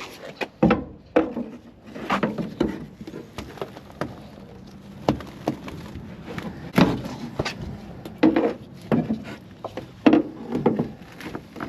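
Irregular knocks, clunks and scraping as interior parts and debris are pulled and handled in a truck cab being stripped out.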